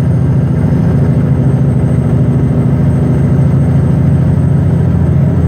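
Western Star logging truck's diesel engine running steadily, a loud low drone.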